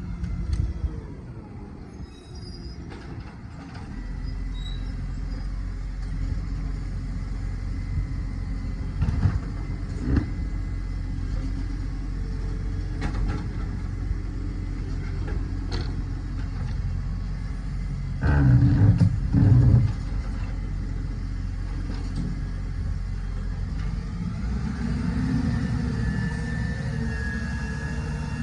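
Garbage truck running with a steady low drone and occasional knocks. A pair of loud heavy bangs comes about two-thirds of the way in, and a whine rises and holds near the end.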